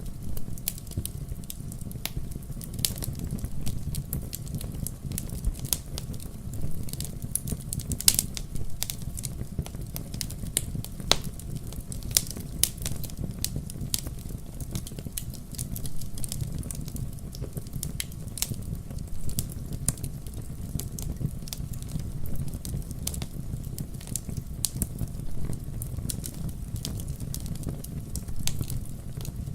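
Wood fire burning in a fireplace: a steady low rumble of flames with dense, irregular crackles and snaps, a few sharper pops standing out.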